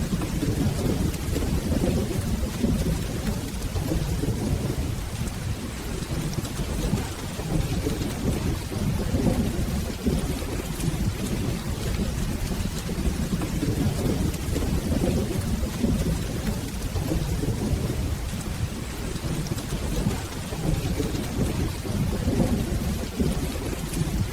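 Steady rain with a continuous low rumble of rolling thunder.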